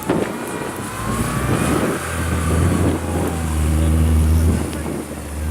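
Off-road 4x4's engine working hard under load, its note getting louder about two seconds in and dipping briefly near the end.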